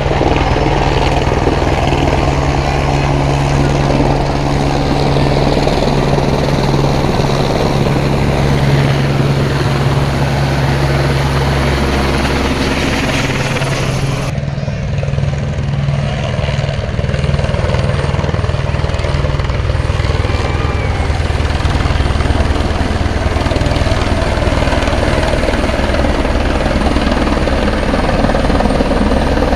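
Helicopter running loud and close as it comes in to land, its rotor beating out a steady rapid thudding. The sound changes abruptly about halfway through.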